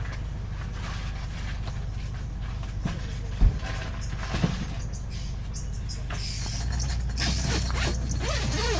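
Steady low rumble of a vehicle running, with two sharp knocks about a second apart midway and more hiss toward the end.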